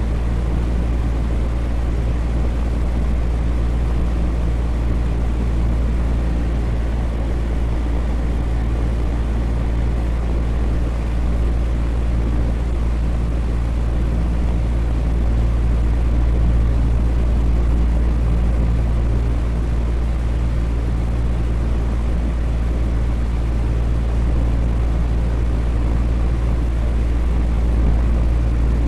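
Electric fan running steadily: a constant low hum with a few faint steady tones under an even airy whoosh.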